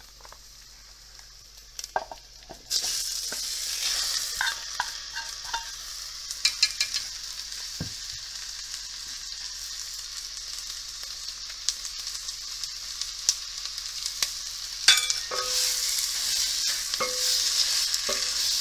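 Marinated chicken pieces dropping into hot oil with sautéed onions: a frying sizzle starts suddenly about three seconds in and keeps going. Spoon clicks and scrapes against the bowl and pot run through it, and the sizzle grows louder near the end as the pieces are stirred with a wooden spatula.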